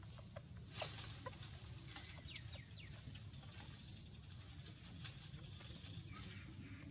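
Short, high animal chirps in quick runs, each dropping in pitch, with a sharp click about a second in, over a steady high hiss.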